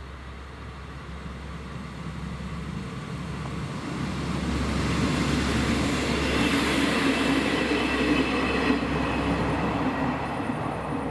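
Regional passenger train approaching and passing a level crossing: the rail noise builds over the first few seconds, is loudest through the middle, and eases slightly near the end.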